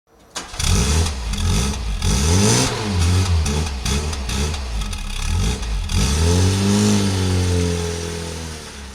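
An engine revving up and down repeatedly, starting abruptly, then settling into a steadier run that fades away near the end.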